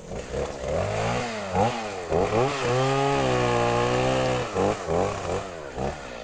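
Chainsaw cutting up a fallen tree, its engine revving up and down several times and held at full speed for about two seconds in the middle.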